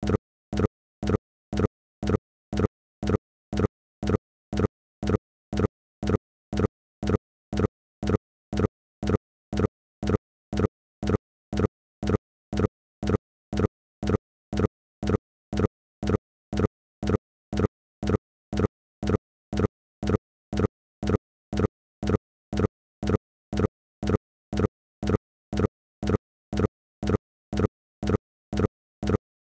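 A short pitched blip repeating mechanically, about twice a second, with silence between each one: a stuck, looping audio glitch where the soundtrack has broken down.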